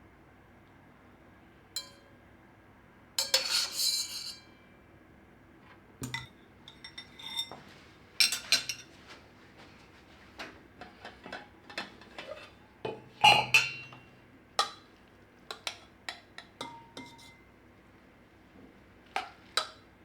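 Kitchen utensils knocking and clinking against dishes in scattered, irregular taps, with a longer noisy scrape about three seconds in and a louder ringing clink a little past the middle.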